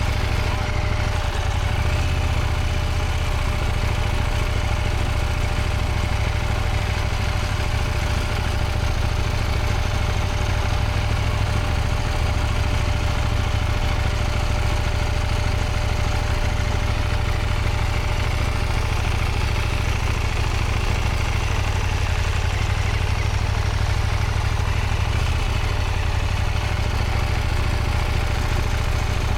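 Motorcycle engine running steadily at low revs, with a constant low rumble and a faint steady whine over it.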